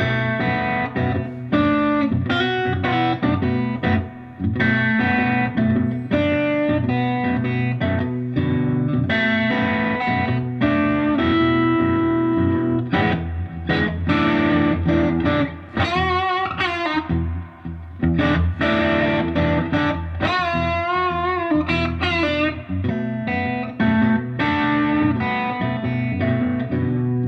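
Electric blues shuffle played on a Fender Stratocaster in the middle pickup position, lightly overdriven through a Koch tube amp: a looped rhythm vamp repeats underneath while live lead lines are played over it. Past the middle come a couple of long held notes with wide vibrato.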